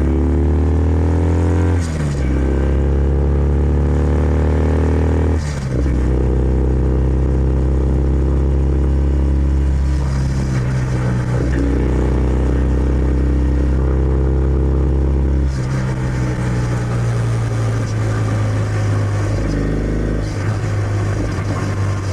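Kawasaki W650's air-cooled parallel-twin engine through its stock exhaust, pulling up through the gears with a rising note and two quick upshifts in the first six seconds, then running at steady speed and easing off about two-thirds of the way through.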